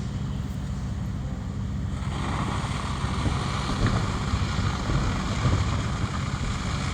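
Fire engine pumping, a steady low engine drone, with a rushing noise of the high-pressure water stream rising about two seconds in and a few faint knocks.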